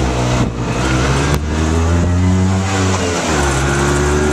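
Car engine accelerating, its note slowly rising, then dropping at a gear change about three seconds in and climbing again.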